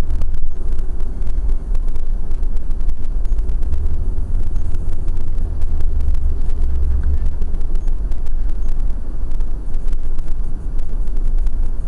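Steady low rumble of a car driving, engine and road noise picked up inside the cabin by a GS8000L dashcam's built-in microphone. It is loud and dominated by a deep boom, the kind of poor recorded sound the owner finds disappointing in this camera.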